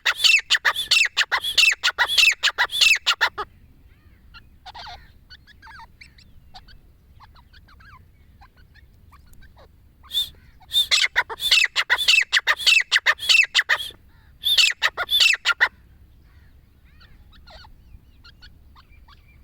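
Francolins (teetar) calling: loud, rapid series of sharp repeated notes, about four a second, in two bouts, the second bout broken by a short pause near its end, with faint scattered chirps in the quiet gaps.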